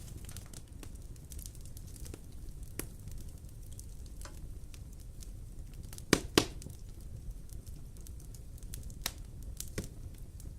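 Wood fire crackling in a fireplace: scattered sharp snaps over a steady low rumble, with two loud pops about six seconds in.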